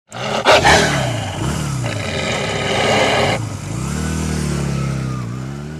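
Motorcycle engines revving, their pitch repeatedly rising and falling; the sound changes abruptly about three and a half seconds in, from a harsher, noisier revving to a smoother rising and falling engine note.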